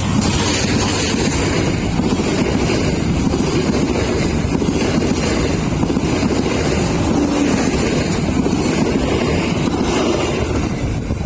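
Train passing close by: a loud, steady rumble and rush of wheels and cars, with wind buffeting the microphone, easing off near the end.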